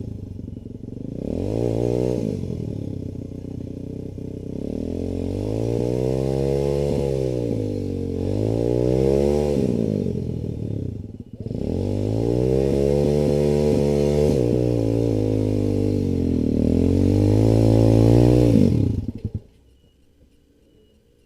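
Dirt bike engine revving up and down repeatedly, with a short break about eleven seconds in, then cutting off abruptly near the end.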